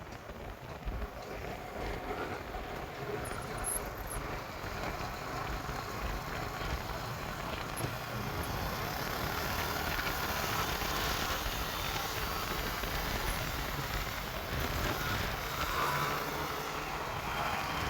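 Motorcycle on the move: a steady rush of wind and road noise, growing a little louder over the first several seconds.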